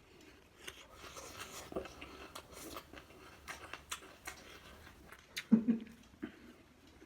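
Close-miked chewing and crunching of food: a run of small crackles and clicks, with one louder, lower sound about five and a half seconds in.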